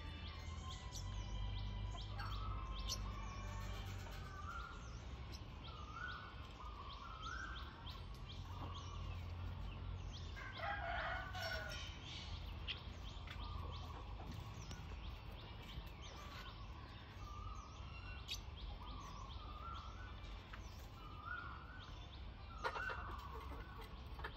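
Birds chirping and calling throughout, with short high chirps and repeated curved call notes, and one longer, louder call about eleven seconds in. A low steady rumble lies underneath.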